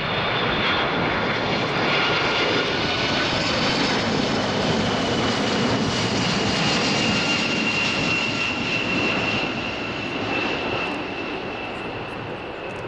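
Boeing 767-300ER's twin jet engines on landing approach, a loud rushing roar with a thin high whine that drifts slightly lower, growing fainter over the last few seconds as the airliner passes.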